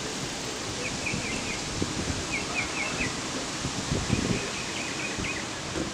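A bird singing short phrases of a few quick chirps, repeated about every one and a half seconds, over a steady outdoor hiss of wind and ambient noise.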